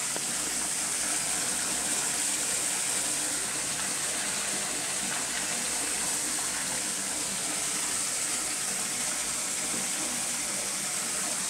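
Water running steadily from a bathtub tap into a filling tub, a leak test of a freshly resealed tub drain and shoe.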